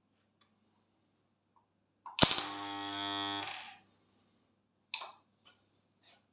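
Homemade microwave-oven-transformer spot welder firing: a sharp crack as the current strikes, then a steady electrical buzz for about a second and a half while the weld pulse runs. A single sharp click follows a little later.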